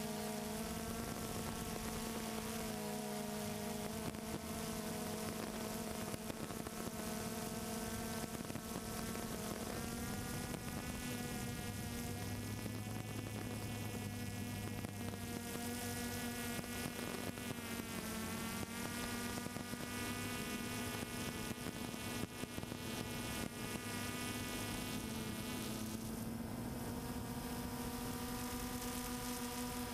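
Multirotor drone's motors and propellers buzzing, picked up by its own onboard microphone. The whine shifts up and down in pitch a few times as the motor speeds change.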